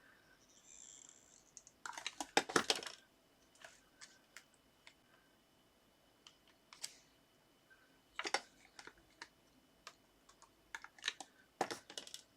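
Paper and card being handled on a craft desk: short bursts of crisp crackling clicks, with single light ticks in between, as small card pieces are picked up, positioned and pressed into place.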